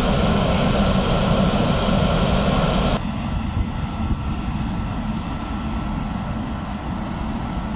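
Container freight train hauled by class 269 electric locomotives passing without stopping: steady rumble and rattle of the wagons' wheels on the rails. It is louder for the first three seconds, then drops a step suddenly and carries on steadily.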